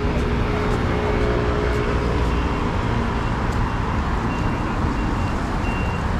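City street traffic: a steady rumble of vehicles and engines. From about two seconds in, short high beeps repeat through the noise.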